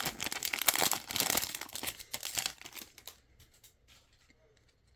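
A foil trading-card pack wrapper being torn open and crinkled by hand, a dense crackling for about three seconds that then thins to a few faint clicks.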